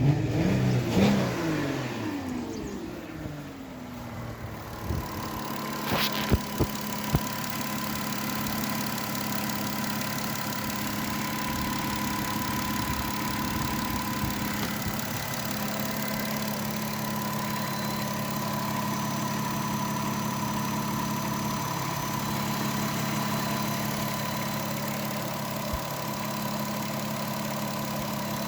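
VW Touareg engine falling back from a rev to idle over the first few seconds, then a few sharp clicks, then idling steadily with a thin steady high tone over it.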